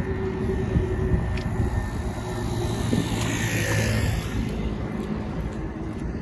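City street traffic: a steady low engine hum, with a motor vehicle passing whose tyre and engine noise swells and fades about three to four seconds in.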